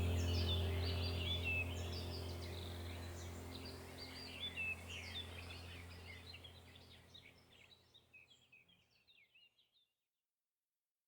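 A chorus of African wild birds chirping and calling rapidly over a steady low drone, all fading out to silence about two-thirds of the way through.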